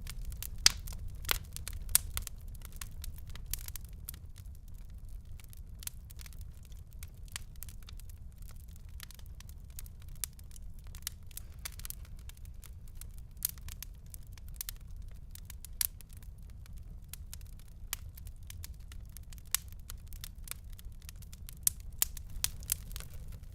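Wood fire crackling in a fireplace: irregular sharp pops and snaps over a low, steady rumble of the flames. A few louder pops come about a second in and again near the end.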